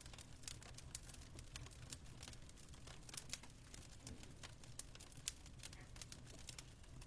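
Fireplace crackling faintly: irregular sharp pops and snaps over a steady low rumble.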